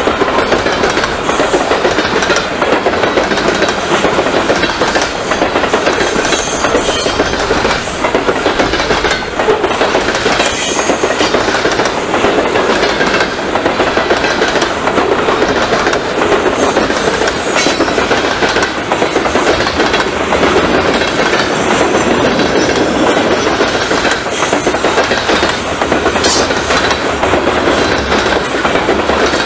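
Freight train of covered hopper cars rolling past at trackside: a steady, loud rolling noise of steel wheels on rail, with repeated wheel clicks as the cars go by.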